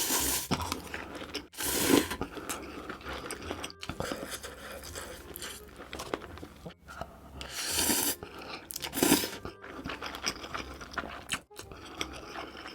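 Close-miked eating of spicy noodles: chewing and wet mouth sounds, with several louder bursts, broken by brief dropouts where short clips are spliced together.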